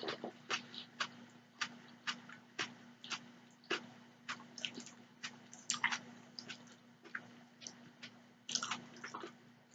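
Close-miked chewing of spaghetti topped with cheese: a run of wet mouth smacks and clicks, about two or three a second, over a steady low hum.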